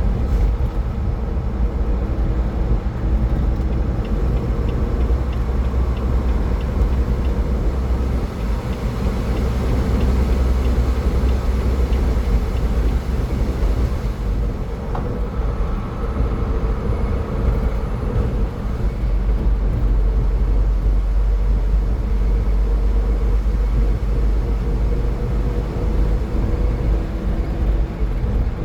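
Steady road noise from a car at highway speed: a continuous low rumble of tyres and engine, with a faint steady hum.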